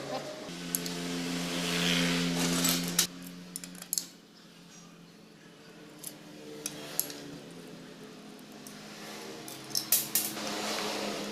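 Metal tools and engine parts clinking and scraping as they are handled during engine disassembly. A steady low hum runs through the first few seconds, with a cluster of sharp clinks near the end.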